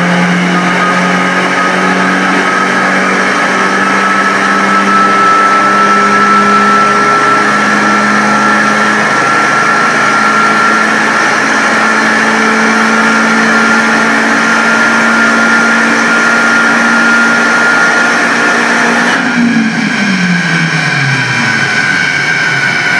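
VW Golf 4's chiptuned 1.8-litre turbocharged four-cylinder engine pulling at full load on a chassis dynamometer, its pitch climbing slowly and steadily with a whine rising alongside. About 19 seconds in the throttle closes and the revs fall away as the rollers coast down.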